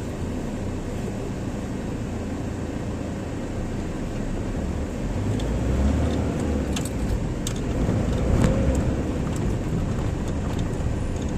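A car running, a steady low rumble of engine and road noise that grows louder about halfway through, with a few light clicks.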